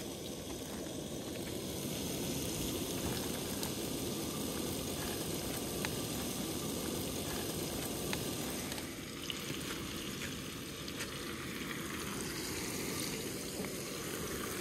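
Chicken pieces frying in a skillet on a camp stove: a steady sizzle, with a few light clicks.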